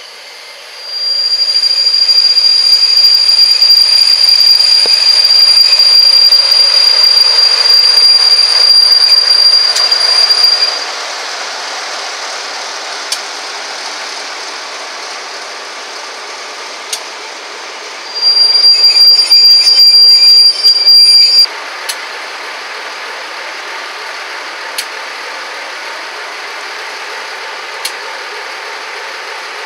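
Locomotive-hauled passenger train (Class 47 diesel with West Coast Railways coaches) running past with a loud, high-pitched steady metallic squeal from its running gear for about ten seconds. A quieter rolling rumble follows, then a second, choppier burst of the same squeal for a few seconds, and later a few single sharp clicks.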